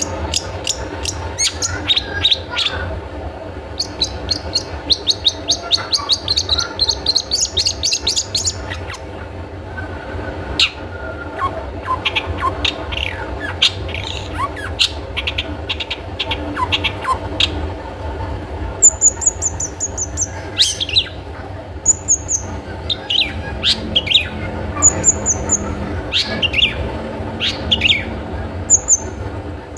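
Long-tailed shrike (cendet) singing a rapid, varied song of sharp chattering notes and fast trills. Near the end come bursts of short, very high repeated notes, over a steady low hum.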